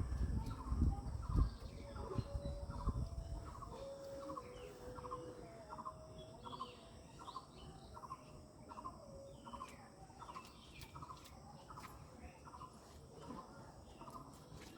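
An animal's short call repeated steadily, about four every three seconds, with a few longer held calls at a lower pitch behind it. Low rumbling bumps in the first second or so.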